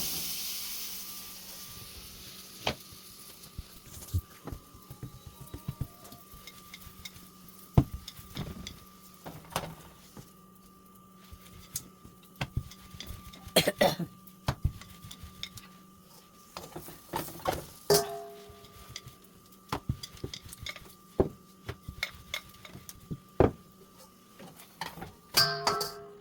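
Cooking sounds at a hot pan: a sharp clank with a burst of sizzling right at the start that fades over about two seconds, then scattered knocks and clinks of utensils against the pan and dishes.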